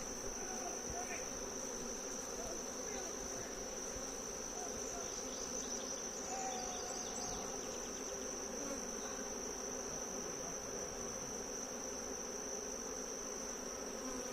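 Many agitated honeybees buzzing steadily around hives that a bear has knocked over, the colonies still angry from the disturbance. A constant high thin whine sits over the buzzing.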